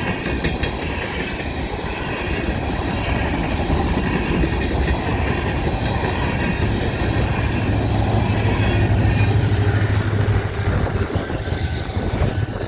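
Coal train's hopper cars rolling past on the rails, with wheels squealing and clicking over the track. A low hum grows stronger from about seven to ten seconds in.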